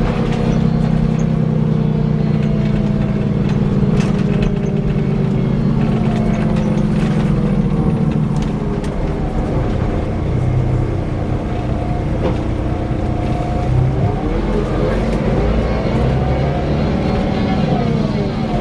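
Scania K340 coach running on the road with a steady whirring drivetrain note. The note's pitch drifts down about a third of the way in and climbs again near the end as the coach's speed changes.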